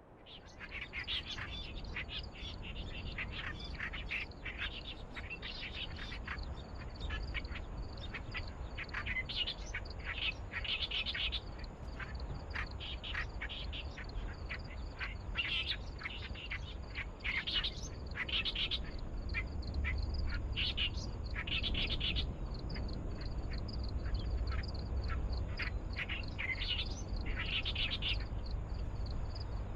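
Reed warbler singing from the reeds, a harsh, chattering run of short repeated notes that goes on throughout, over a low rumble.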